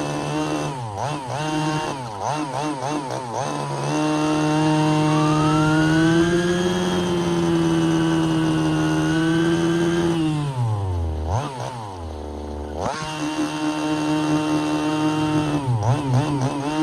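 Small two-stroke engine of a Redcat RC car running hard. The throttle is blipped for the first few seconds, then held high and steady. It drops off to a low run a little after the middle, then revs back up with more quick blips near the end.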